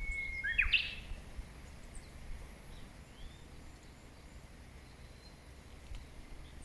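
Wild birds calling: a held whistled note, then a sharp sweeping call just under a second in, followed by scattered faint high chirps. A low rumble with occasional low thumps runs beneath.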